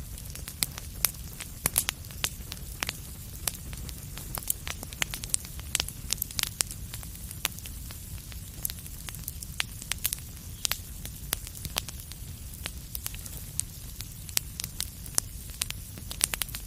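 Wood fire crackling in a fireplace: frequent irregular sharp pops and snaps over a steady low rumble of the burning.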